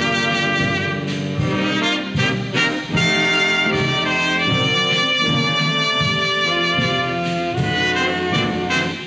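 Big band brass and saxophone sections playing long, held chords in a 1960s jazz dance-band recording. The band dips briefly a little under three seconds in, then comes back in full.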